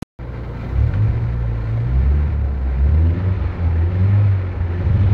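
Stage 2 Nissan 200SX S13's turbocharged engine with a 3-inch turboback exhaust, heard from inside the cabin as it runs loud under way. The deep exhaust note steps up and down in pitch several times.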